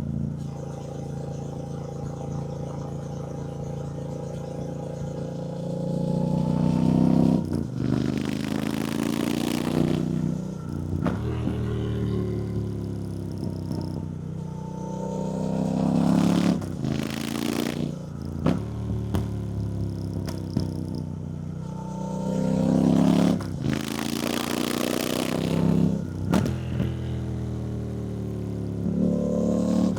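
2024 Triumph Bonneville T120's 1200 cc parallel-twin engine under way, its pitch rising and falling several times as the bike accelerates and eases off, with a rush of wind noise now and then.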